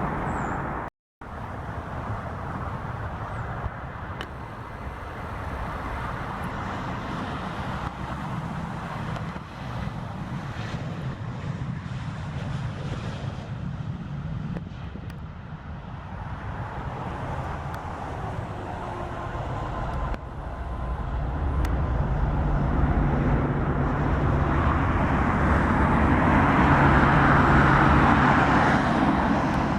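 Jet aircraft engines running, a steady rushing noise with a low hum that grows louder over the last ten seconds.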